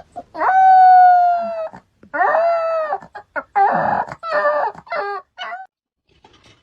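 A dog howling in a string of calls: one long, nearly level call, then several shorter ones, one of them harsh.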